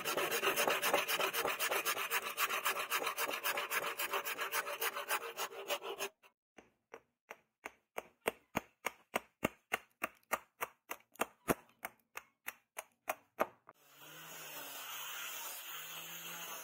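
A hand file or rasp worked in back-and-forth scraping strokes, rapid and continuous at first, then slower and separate at about three strokes a second after about six seconds. A steady whirring hiss takes over for the last few seconds.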